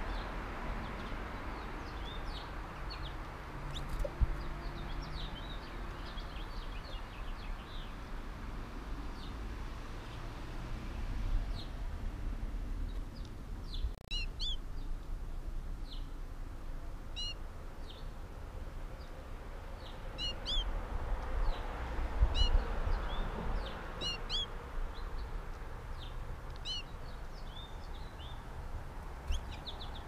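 Small songbirds chirping in short, high calls scattered throughout, busier in the second half, over a steady background hiss and low rumble. One brief knock comes about four seconds in.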